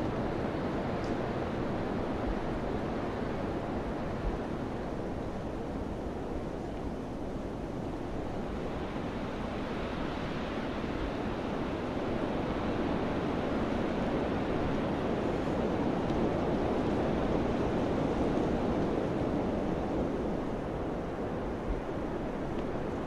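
Wind blowing as a steady rushing noise, swelling into a stronger gust about halfway through and easing off again near the end.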